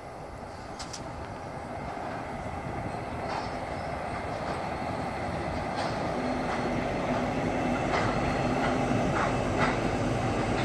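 Aurizon coal train with diesel-electric locomotives approaching over a steel truss railway bridge: a steady rumble that grows louder, with a low steady engine note in the second half and scattered sharp wheel clicks.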